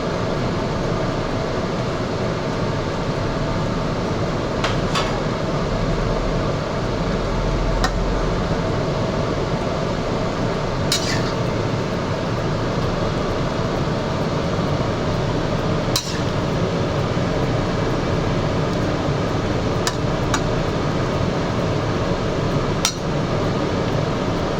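Steady fan-like kitchen noise over a pot cooking on the stove, with about five sharp clinks of a metal utensil against the pot spread through.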